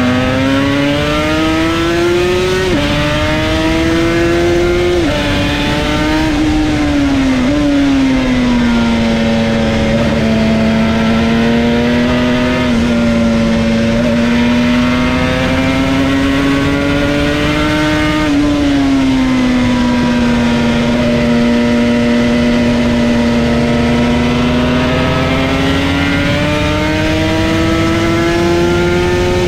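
Yamaha TZR250's two-stroke parallel-twin engine at high revs, heard from the rider's seat. Its pitch climbs and drops sharply at quick upshifts about three and five seconds in, falls away through a long stretch of fairly steady revs, then drops at another upshift a little past halfway and climbs again near the end.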